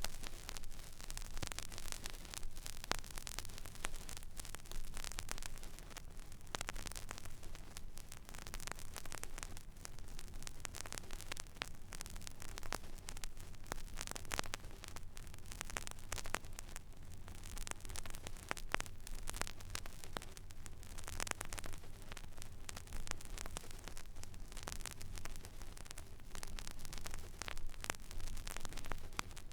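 Stylus running in the empty groove of a vinyl record: steady surface hiss with dense crackle and scattered louder pops, over a low hum.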